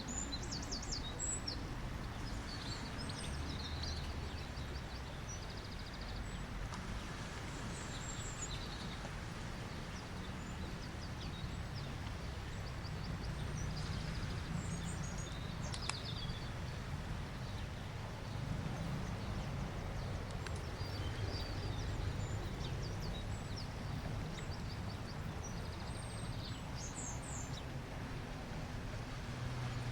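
Birds chirping and calling in short, scattered bursts over a steady low rushing background.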